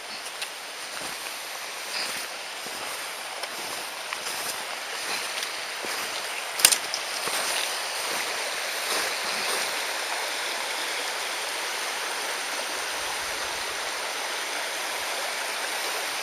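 Mountain stream rushing steadily, growing a little louder after the first half, with scattered small knocks and one sharp click about six and a half seconds in.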